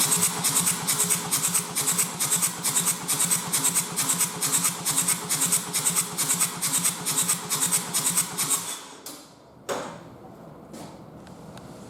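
Kia Sportage 1.7 CRDi D4FD diesel engine being turned over by its starter, a steady chugging of about four to five compression strokes a second, for about nine seconds before it stops. A single clunk follows about a second later.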